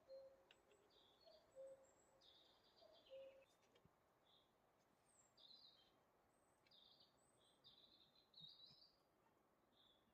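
Faint forest birdsong: a low two-note call, a short higher note followed by a longer lower one, repeated about every second and a half for the first few seconds, with short high chirping notes from other birds throughout.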